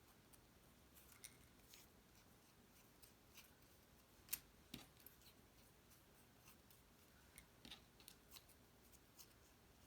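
Scissors making faint, scattered snips while cutting foam tape into small squares, with the sharpest snip about four seconds in and a quick run of snips near the end.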